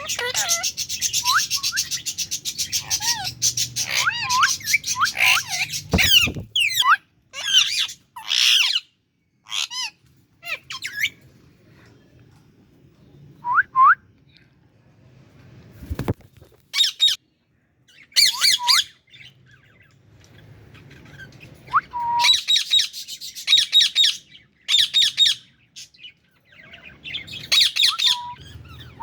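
Indian ringneck parakeets squawking in bursts of rapid harsh calls, with short rising chirps between them and quiet gaps. Two sharp knocks, about six and sixteen seconds in.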